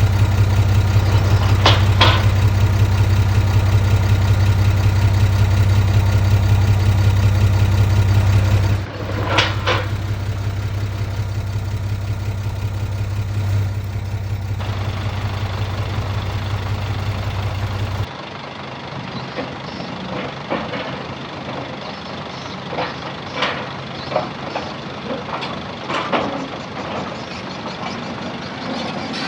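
Heavy diesel engine of earthmoving machinery running at a steady low pitch, with a couple of sharp metal clanks. After a cut it is quieter, with a lower engine and scattered knocks and clanks.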